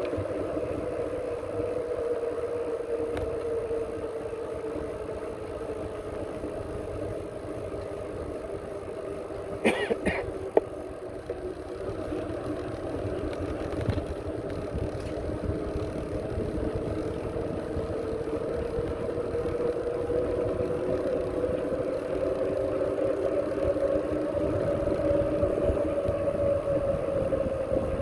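Riding noise from a moving bicycle: a steady hum that rises and falls slowly in pitch with speed, over low wind rumble, with a couple of sharp clicks about ten seconds in.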